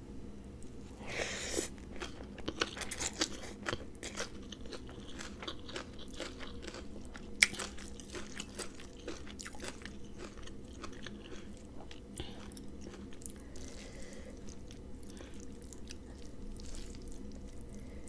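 Close-up chewing and crunching of a mouthful of spicy Thai rice-noodle salad with shrimp and raw vegetables: wet bites and crisp crunches, densest in the first few seconds, with one sharp click about seven seconds in, over a faint steady low hum.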